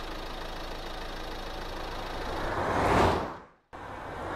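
Cartoon toy-car engine sound effect: a steady low running noise that swells up about three seconds in as the car drives off. It cuts out for a moment, then swells up again near the end as the next car comes in.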